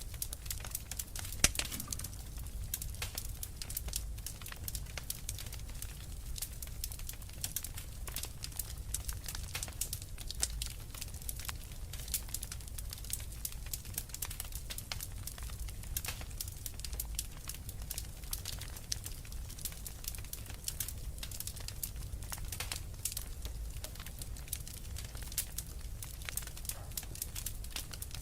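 Wood fire in a fireplace crackling with many small pops, one sharper pop about a second and a half in, over a steady low rumble.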